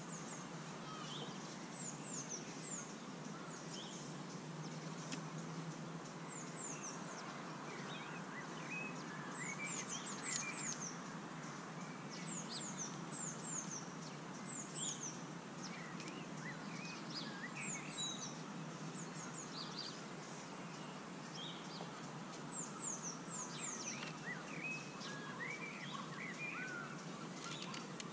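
Small birds calling repeatedly over a steady background hiss of open-air ambience. The calls are short, high, falling notes in quick runs of three or four, recurring every few seconds.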